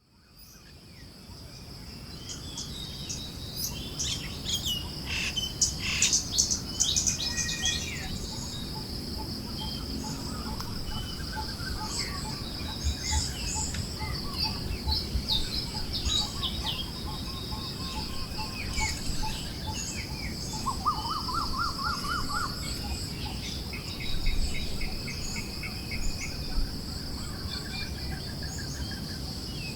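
Forest ambience: many birds chirping and trilling over a steady high insect drone and low wind noise, fading in over the first couple of seconds.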